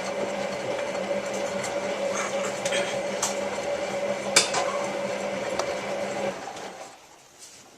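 Hotpoint 9534A washing machine's drum motor humming steadily as the drum turns during the main wash, with light clicks and knocks from the load and one sharper click about four seconds in. The hum dies away about six seconds in as the drum stops for its pause between turns.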